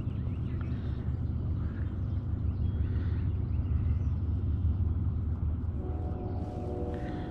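Steady muffled low rumble with the higher sounds dulled away, as picked up by a head camera's microphone after the camera has fallen off. Faint steady tones come in about six seconds in.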